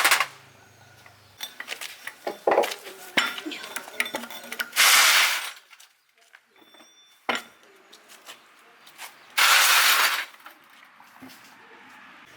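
Metal parts clinking and clattering as they are handled, with two loud hissing bursts lasting under a second each, about five and ten seconds in.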